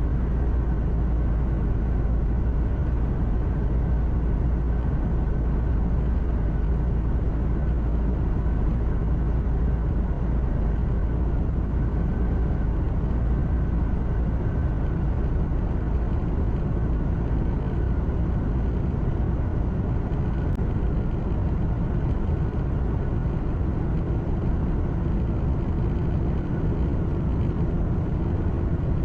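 Steady engine drone and road noise inside the cab of a truck driving along at a constant pace, with a low tone joining in during the last few seconds.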